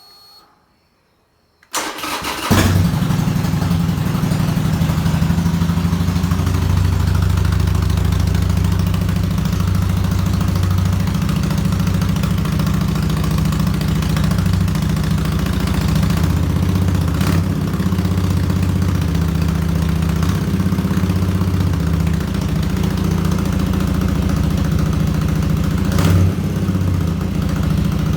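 Harley-Davidson Iron 883 Sportster's air-cooled V-twin cranking on the starter and catching about two seconds in, then idling loudly and unevenly through an aftermarket Cobra exhaust. There is a short sharp blip near the middle and another near the end.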